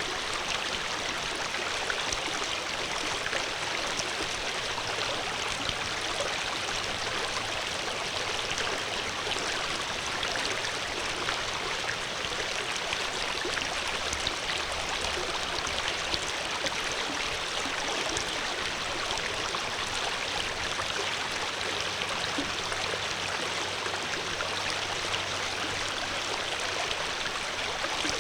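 Water flowing in a steady, continuous rush, like a stream running over rocks.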